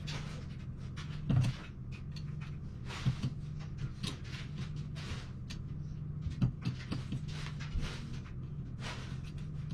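Irregular small clicks, knocks and handling noises over a steady low hum.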